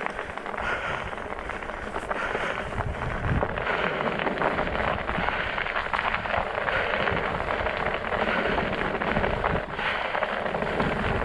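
Studded fat-bike tyres rolling over ice and crusted snow, a steady dense crackle and crunch.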